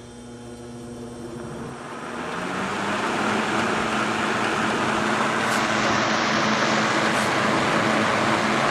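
Vintage Eskimo 121050 12-inch box fan switched on and coming up to speed: the rush of air builds over the first three seconds, then holds as a steady whoosh over a low, even motor hum. The motor is freshly oiled and runs smoothly, where before it screamed for lack of oil.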